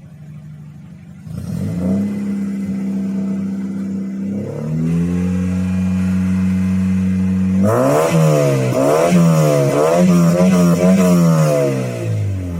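Audi 100 C3's 1.8-litre four-cylinder petrol engine through a straight-through exhaust with a Buzzer rear muffler. It idles, is revved up and held about a second in, raised and held again a few seconds later, then blipped quickly five or six times before dropping back toward idle near the end.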